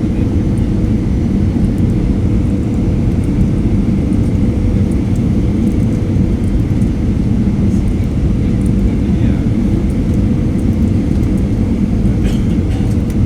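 Aircraft in flight: a loud, steady rumble of engine and rushing air heard at the open cabin door, with a faint steady tone running through it.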